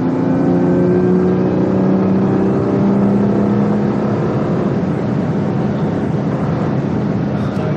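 BMW M2 Competition's twin-turbo straight-six under load, heard from inside the cabin over tyre and road noise. The engine note holds for about four seconds, then fades into the road noise.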